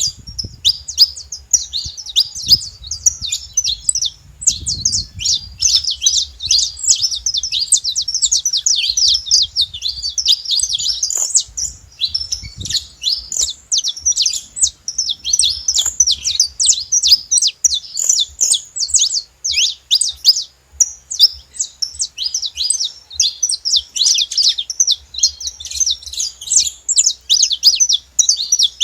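Saffron finches chirping and singing without pause: a dense run of fast, high, overlapping chirps.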